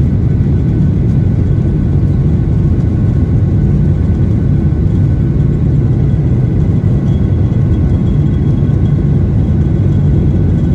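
Steady low rumble of a moving vehicle with no change in pitch or level, and faint thin steady high tones above it.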